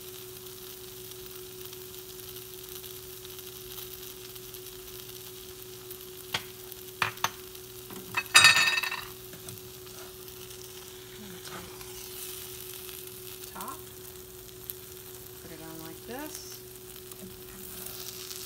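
Butter-soaked bread and cheese sizzling steadily in a frying pan, with a few sharp clicks and, about eight seconds in, a loud clatter of the metal spatula working against the pan.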